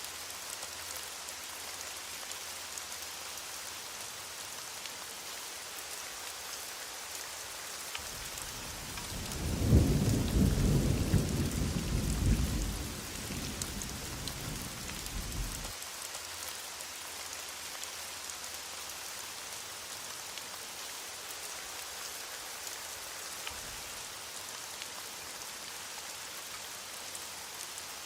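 Steady heavy rain hiss, with a rumble of thunder rising about eight seconds in, loudest a couple of seconds later, then cutting off suddenly about halfway through while the rain continues.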